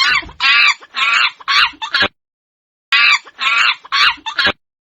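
Monkey calling: two runs of about five quick, high-pitched chattering calls each, the second run starting about three seconds in.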